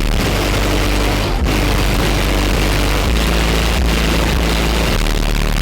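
Trunk-mounted car audio system playing music at very high volume, dominated by deep bass notes that change every second or so.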